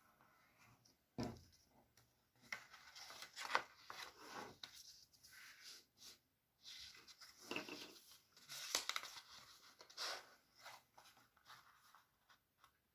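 A sheet of paper being handled, folded and creased by hand: intermittent rustling and crinkling, with a soft thump about a second in.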